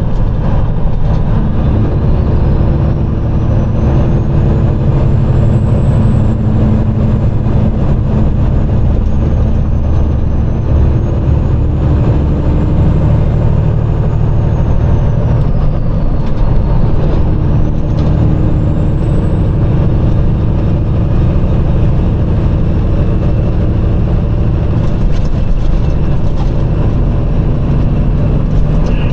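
Peterbilt 389 glider truck under way: its heavy diesel engine and road noise make a loud, steady low rumble, the engine pitch rising and falling gently, with a faint high whine drifting up and down above it.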